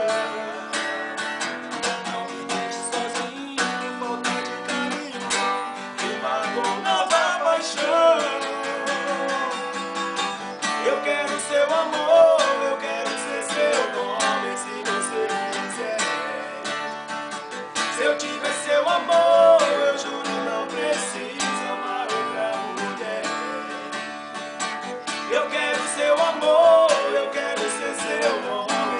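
Acoustic guitar music: strummed chords with a wavering melody line running over them, with almost no bass.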